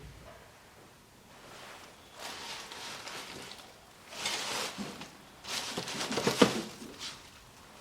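Rustling and small knocks of things being handled, in three bursts about a second or two apart, the last the loudest with a few sharp clicks.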